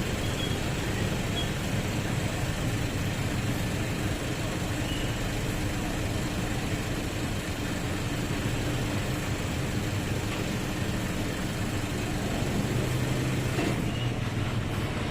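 Road traffic: vehicle engines running steadily with a continuous low rumble, a low engine hum growing a little stronger near the end.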